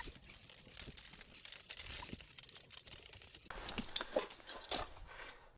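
Faint, irregular rustling and crackling made up of many small scattered clicks.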